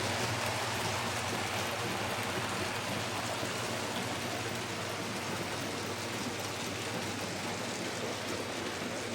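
Model trains running around the layout's track: a steady rolling rattle of small wheels on rail.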